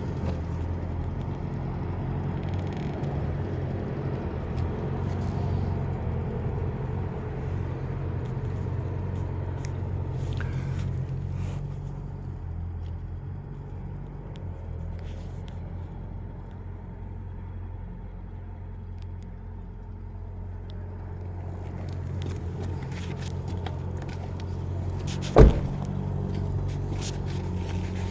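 Steady low rumble of an idling engine, with one sharp knock about 25 seconds in.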